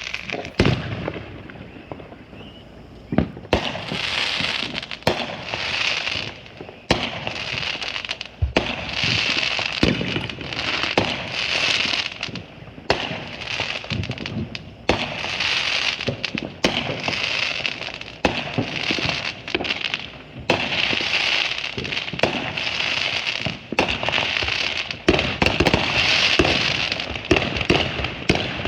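Consumer fireworks going off in rapid succession: sharp bangs mixed with long spells of dense crackling. There is a brief lull a second or so in, then nearly continuous bursts.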